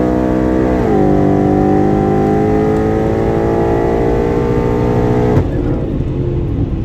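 Twin-turbo Ford Coyote 5.0 V8 running at full throttle on a quarter-mile pass. An automatic upshift drops the pitch about a second in, then the engine note climbs steadily. About five seconds in the note cuts back abruptly and the sound falls away.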